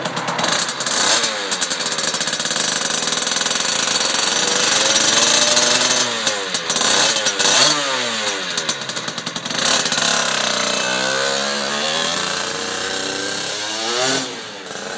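Two-stroke CPI supermoto engine with an 80cc Polini cylinder kit and Yasuni R2 expansion-chamber exhaust, revved hard several times with the pitch rising and falling. It then accelerates away through the gears, dropping in loudness near the end.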